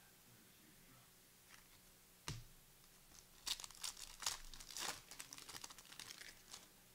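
A single knock, then a trading card pack's plastic wrapper being torn open and crinkled for about three seconds.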